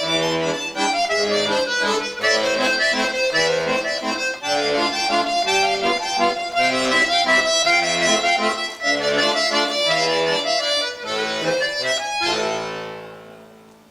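Bayan (Russian button accordion) playing a lively waltz solo. About twelve seconds in it settles on a held final chord that fades away as the bellows ease off.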